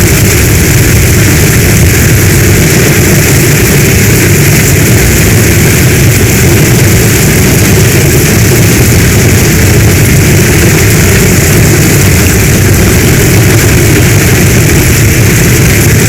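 Heavy rain falling steadily, a dense even hiss with a strong low rumble underneath and no single drops or claps standing out.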